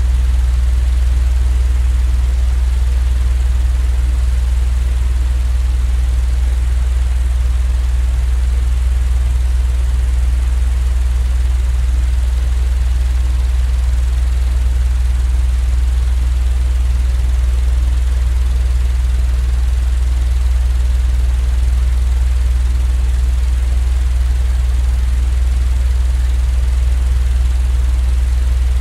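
Steady, unchanging low droning rumble with a faint hum and an even hiss over it: a continuous white-noise sleep sound.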